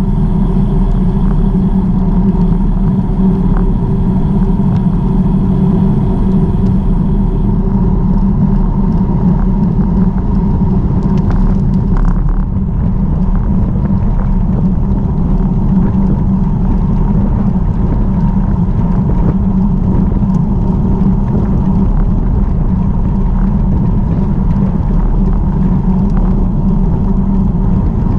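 Steady rumble of wind buffeting the microphone and tyre noise during a bicycle ride, with a brief hiss about eleven seconds in.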